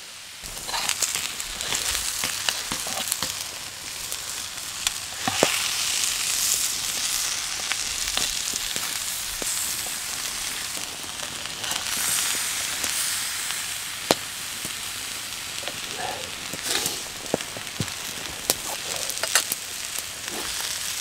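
Food sizzling steadily in a frying pan over a campfire, with occasional sharp clicks. The sizzle comes up about a second in.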